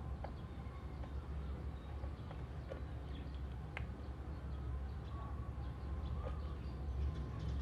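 Oriental magpie-robin giving sparse sharp clicking notes and a few short faint whistles rather than full song, over a steady low background rumble.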